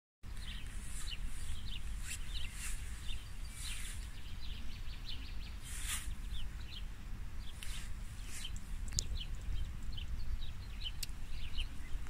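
Birds chirping repeatedly in short, quick calls over a steady low rumble.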